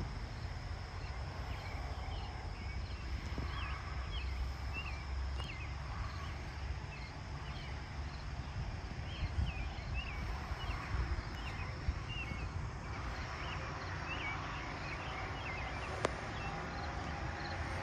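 Rural dawn ambience: a bird chirping over and over in short, quick calls, over a low steady rumble and a faint steady high hum.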